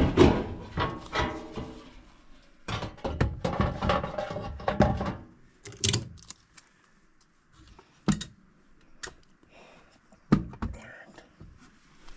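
Two stretches of a loud, pitched, wavering sound in the first five seconds, then a series of separate knocks and thunks, about one every second or two, as a furnace's sheet-metal access panel and parts are handled.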